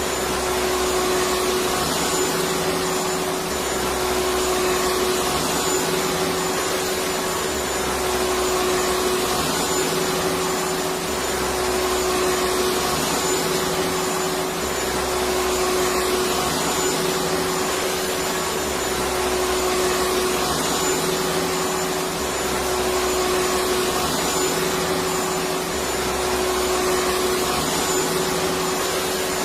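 Vacuum cleaner motor running continuously with a steady whine over a broad rushing hiss, its low hum swelling and easing about every three to four seconds.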